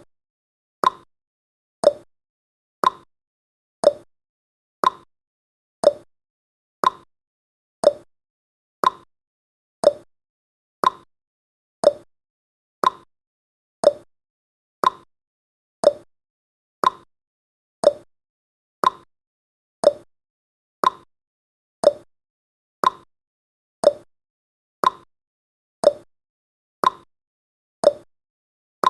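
Clock-tick sound effect of a countdown timer: short, sharp ticks at a steady one per second, marking each second counted down.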